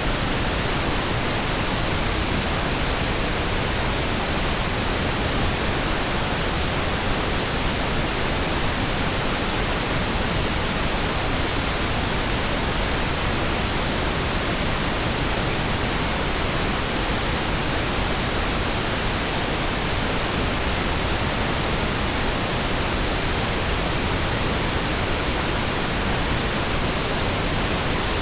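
Synthesized pink noise: a steady, even hiss spread across the whole range, with no changes.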